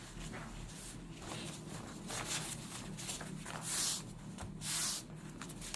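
Scrap rice paper rustling as it is pressed onto a wet painting to blot up the excess water, with two louder rustles near the end.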